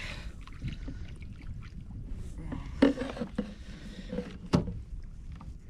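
Handling noise aboard a kayak at sea: a few sharp knocks, the loudest about three seconds in and again near four and a half seconds, over a steady low rumble of wind and water.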